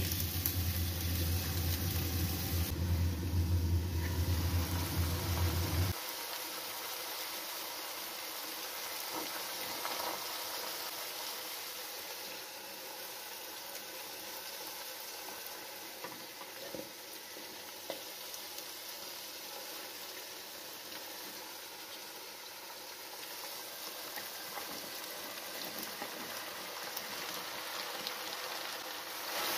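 Food frying in hot oil in a wok: loud sizzling with a low rumble underneath for about six seconds, then an abrupt drop to a quieter, steady sizzling hiss.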